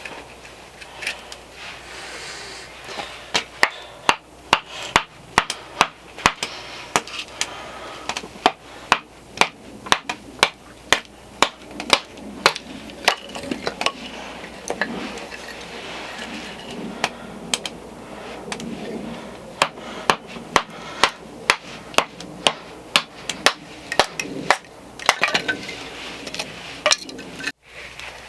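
Firewood being split into smaller pieces by hand: a long run of sharp, evenly paced strikes, about two a second, with wood cracking apart between them.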